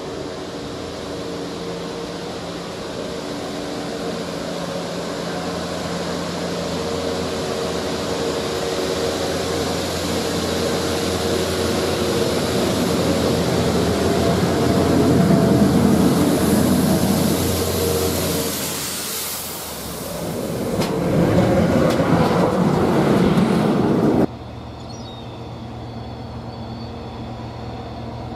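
GB Railfreight class 73 electro-diesel locomotives on a rail head treatment train approaching and passing, the sound building to a peak about halfway and surging again as the rest of the train goes by. The sound cuts off abruptly near the end, leaving a quieter steady hum.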